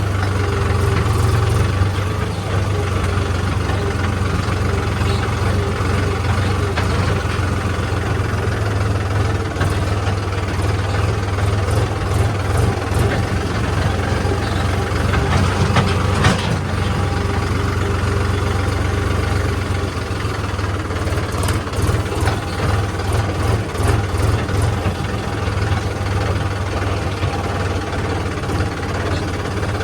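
Heavy diesel engine running steadily at low speed with a deep, even hum, with scattered knocks and clatter, most in the middle of the stretch.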